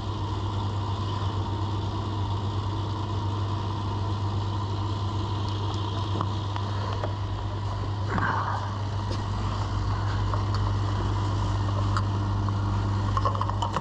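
A motor vehicle engine idling steadily with a low hum, which cuts off at the very end.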